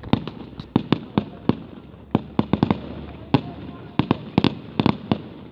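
Fireworks display: many sharp bangs and pops in quick, irregular succession, several a second, from shells bursting overhead.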